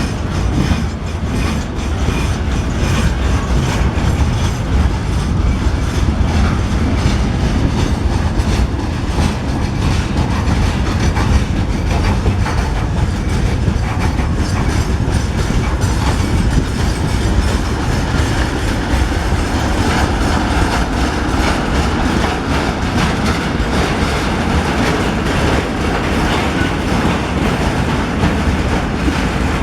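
Train rolling past close by, its wheels clacking over the rail joints through a steady low rumble.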